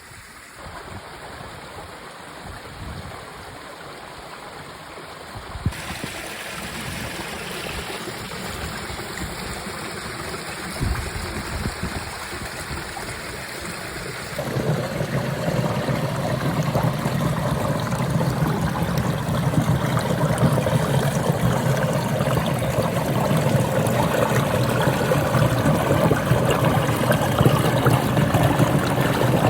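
Water rushing and splashing down rock cascades of a rain-fed waterfall, a steady rush that becomes louder and fuller about halfway through.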